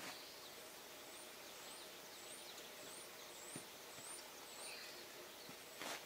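A small bird calling a thin, high chirp eight times at an even pace of a little under two a second, faint over quiet rural outdoor ambience. A brief rustle comes near the end.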